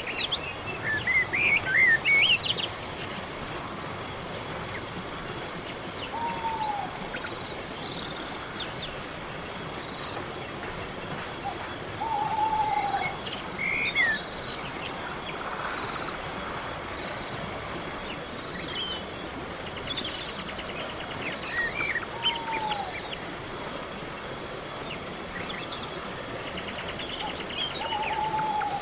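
Night forest ambience: crickets chirping in a steady, evenly pulsing chorus. Over them, a bird gives a short falling call four times, several seconds apart, with scattered higher chirps in between.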